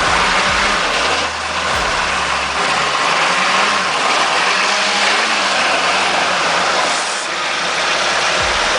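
Off-road vehicle engine revving under load, its pitch rising and falling, over a loud steady rushing noise.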